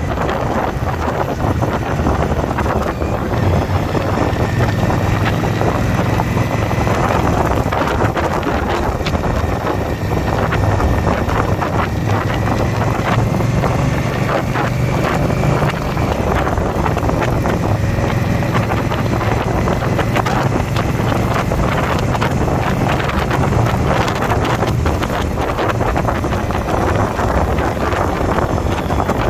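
Indian motorcycle's V-twin engine running steadily at cruising speed, with wind buffeting the microphone.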